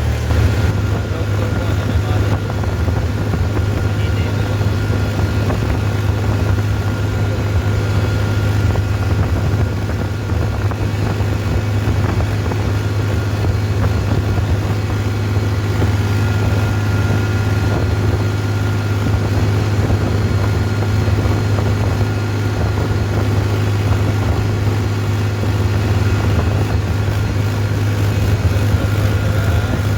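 Tractor engine running at a steady speed, a constant low drone that holds unchanged throughout.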